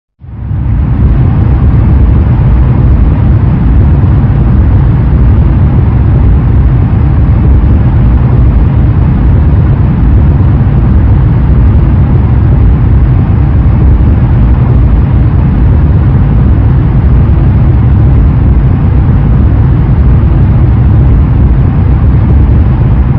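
Airplane engine drone, a steady low noise that comes in suddenly, holds level and begins to fade near the end.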